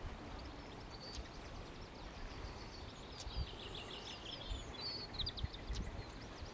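Small songbirds chirping and singing in short high notes, becoming a quick run of notes about halfway through, over a steady outdoor hiss with a few soft low thumps.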